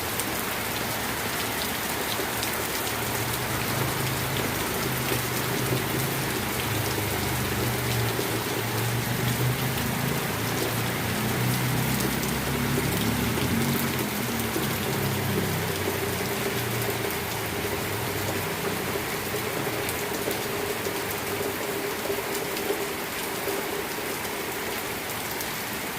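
Fairly heavy rain falling steadily, a dense hiss of drops, with a low rumble swelling and fading through the middle.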